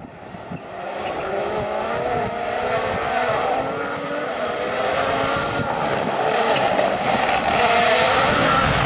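Rally car engine revving hard under acceleration, its pitch rising and dropping with gear changes as it gets steadily louder on approach.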